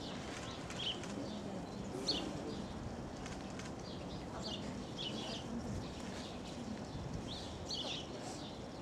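Small birds chirping: short high chirps repeating every second or so, over a steady background murmur.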